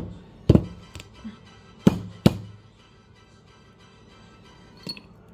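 Sharp knocks of a hard tool striking a whole nutmeg on a hard surface to crack off a piece, five in the first two and a half seconds, then one faint knock near the end. Soft background music underneath.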